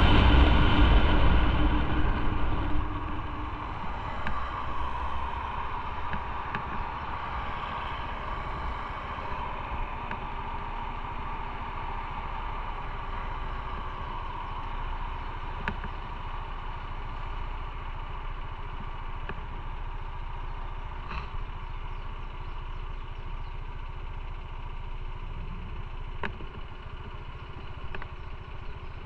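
Motorcycle engine idling steadily, louder for the first few seconds and then settling to an even running note.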